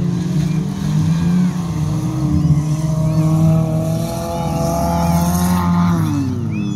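Junk race cars' engines running on a dirt track, one revving harder so its pitch climbs for a few seconds, then dropping off sharply about six seconds in.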